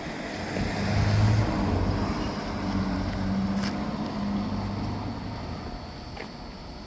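A vehicle engine going by: a steady low hum that swells to its loudest about a second in, then slowly fades.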